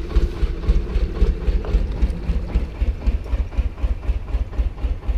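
Narrowboat diesel engine running with a low, pulsing chug.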